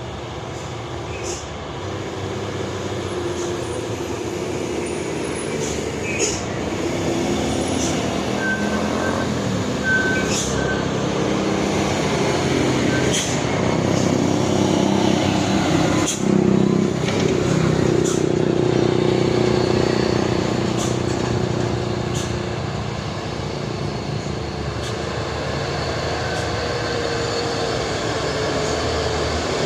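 Heavy diesel truck engine running under load, growing louder toward the middle and easing off later, with a few short sharp clicks or hisses now and then.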